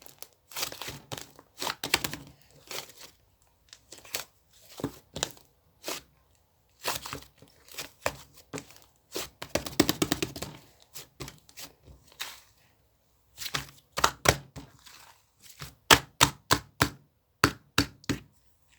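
Close-up handling noises: irregular sharp taps and clicks in clusters, mixed with short rustles.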